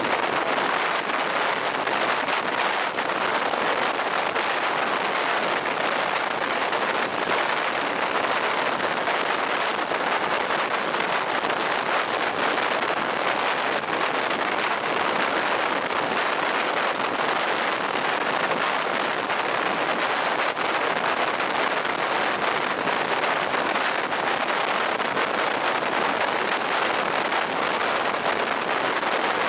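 Regional train running through a tunnel, heard from an open carriage window: a steady rush of wheel and wind noise with a fine, continuous clatter.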